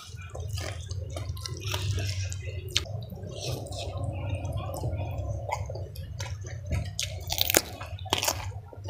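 Close-miked wet chewing and lip-smacking as mouthfuls of rice are eaten by hand, with many sharp wet clicks of the lips and tongue.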